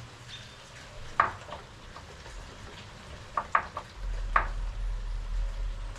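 Scattered light clicks and taps from hands working the lashing cord against the wooden frame of a skin-on-frame kayak: one about a second in, a quick group of three around three and a half seconds in, and another just after four seconds. A low rumble comes in for the last two seconds.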